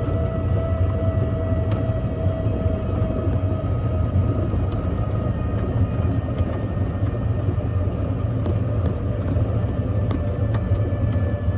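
A small vehicle's engine running steadily while driving, a low rumble with a faint whine over it, and a few light clicks and rattles.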